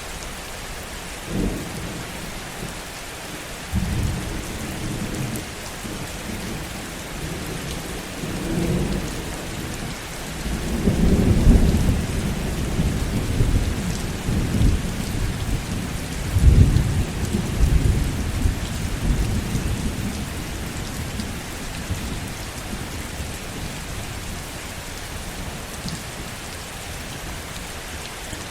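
Heavy rain falling steadily under a long roll of thunder. Low rumbles begin a couple of seconds in and swell to their loudest about halfway through, with two strong peaks a few seconds apart. They die away over the last third, leaving the rain alone.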